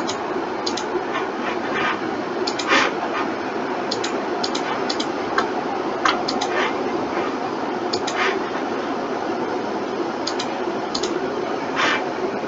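Irregular clicking of a computer mouse and keyboard, some clicks in quick pairs, over a steady background hiss.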